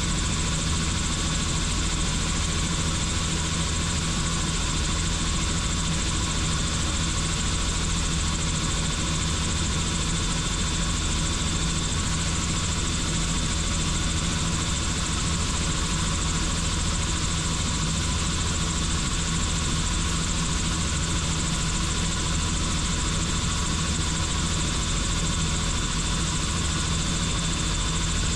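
Helicopter rotor and turbine engine running steadily in flight, heard from on board: a constant low rotor drone with a thin steady high whine.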